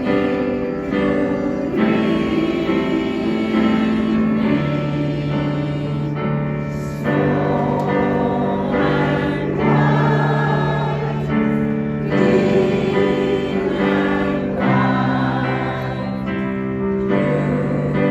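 Choir singing sustained notes in harmony, with piano accompaniment.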